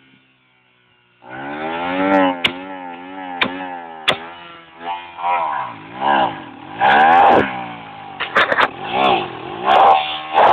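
Motorcycle engine revving up and down over and over, starting about a second in, with a few sharp clicks.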